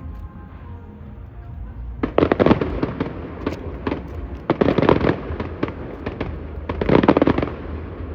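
Fireworks bursting overhead in three volleys of rapid, crackling pops, each lasting about a second, with the volleys roughly two seconds apart.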